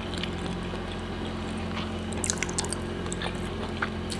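Quiet eating sounds: scattered light clicks of cutlery on a plate and mouth sounds of chewing, over a steady low electrical hum.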